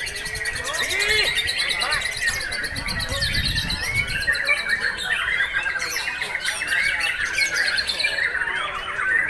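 A white-rumped shama singing continuously, a fast unbroken stream of varied whistles, rapid trills and harsh squawking notes.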